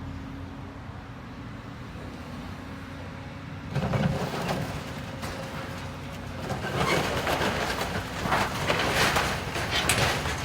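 A demolition machine's engine running steadily, then from about four seconds in, loud crunching and crashing as the building is torn apart, in repeated surges that grow loudest near the end.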